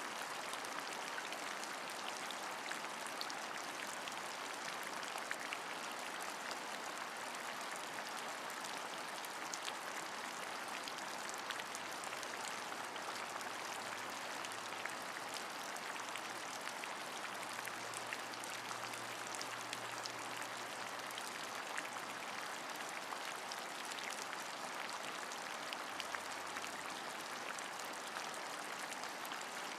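Steady rain falling, an even hiss with scattered drops ticking. A faint low hum comes in around the middle and briefly near the end.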